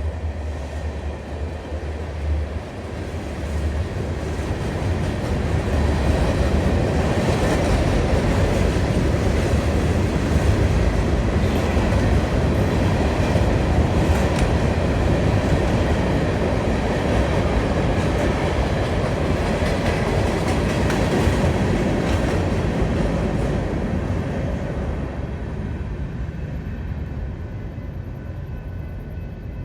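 A train rolling past with a steady rumble and wheel noise. It grows louder over the first few seconds, holds, then fades away in the last several seconds.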